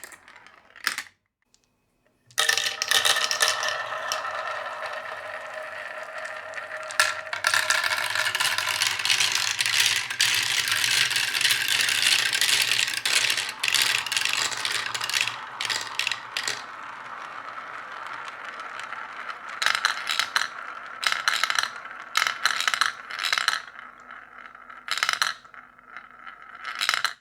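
Many marbles rolling and clattering down a marble run: a few clicks, a short pause, then about two seconds in a dense, continuous rattle of rolling marbles starts, thinning later into separate bursts of clatter and clicks.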